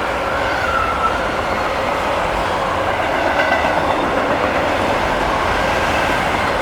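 CSX freight train of empty auto rack cars passing close at speed: a loud, steady rush of wheels on rail, with a faint wavering high whine.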